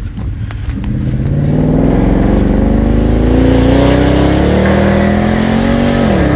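Mercedes-Benz C63 AMG's 6.2-litre V8 accelerating hard, its note climbing steadily in pitch and getting louder over about five seconds, then dropping sharply near the end.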